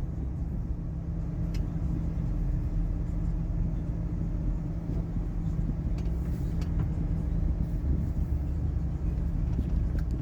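Road noise inside a moving car: a steady low rumble of engine and tyres, with a faint hum and a few light ticks.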